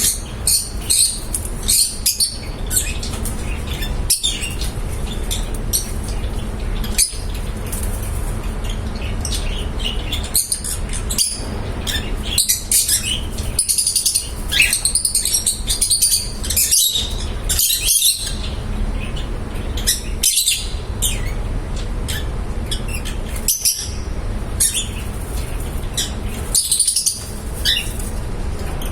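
Pet lovebirds chirping and twittering in many short, high calls scattered throughout, over a steady low hum.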